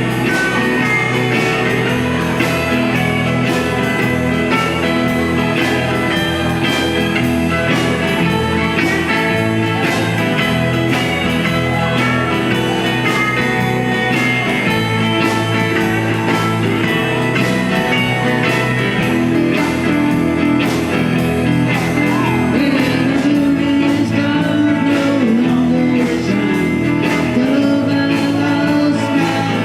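A small rock band playing a blues-rock song: guitar over a steady drum beat, with a voice singing.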